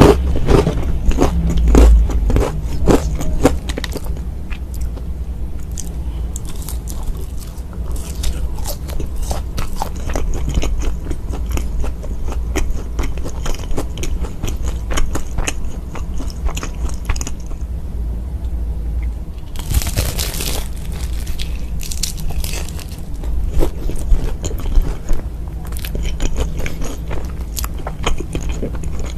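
Crispy fried chicken bitten and chewed close to the microphone, with sharp crackling crunches, thickest in the first few seconds, and a longer burst of crunching noise about twenty seconds in. A low steady hum runs underneath.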